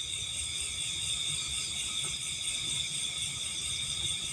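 Steady, high-pitched chorus of night insects, several shrill tones held unbroken.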